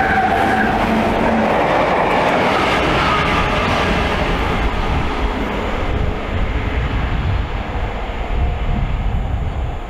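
Diesel-hauled train passing close at speed: locomotive engine noise with wheels running on the rails, loudest in the first few seconds and then fading as the train draws away.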